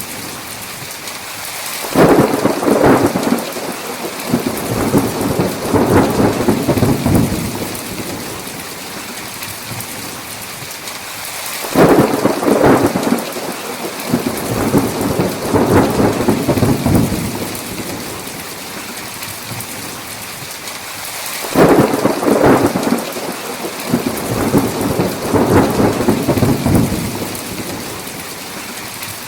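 Steady heavy rain hiss with three peals of thunder about ten seconds apart. Each peal opens with a sudden crack and rolls on as a rumble for five or six seconds before fading back into the rain.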